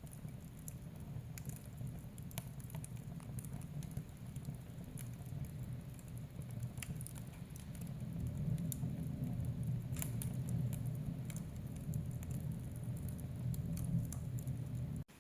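Wood fire in a fireplace crackling and popping: irregular sharp snaps over a steady low rumble of the flames, growing a little louder about halfway through.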